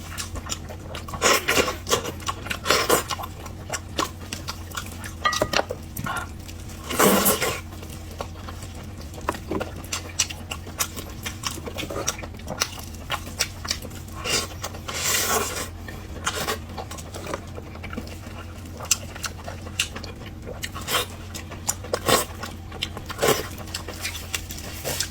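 Close-miked eating sounds: wet mouth noises and chewing in short, irregular bursts, with occasional clicks of cutlery against a dish.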